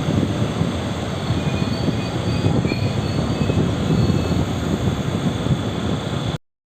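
Taiwan Railways local express electric train rumbling steadily at the station platform, with faint high wheel squeals. The sound cuts off abruptly near the end.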